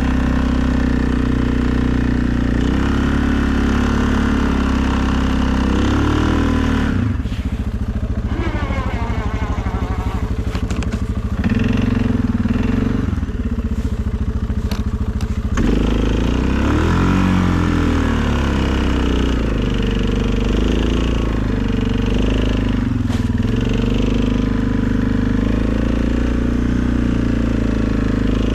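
2020 Suzuki KingQuad ATV's single-cylinder engine running while plowing snow, its pitch rising and falling with the throttle. About a quarter of the way in it settles to a slower, lower run for several seconds before picking up again.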